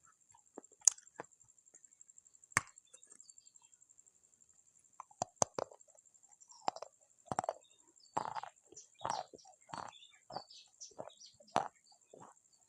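Pieces of baked clay pot being bitten and chewed close to the microphone: a few sharp snaps in the first half, then a quick run of crunches, about two a second, in the second half.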